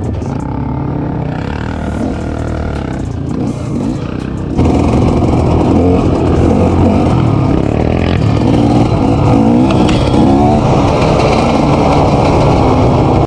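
Off-road vehicle engine running under way, heard on board over rough ground. It gets noticeably louder about four and a half seconds in as the engine works harder, and its pitch rises and falls with the throttle.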